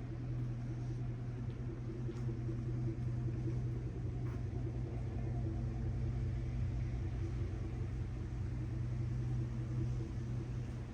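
A motor vehicle's engine running close by, a steady low rumbling drone that grows a little louder a couple of seconds in and eases off near the end.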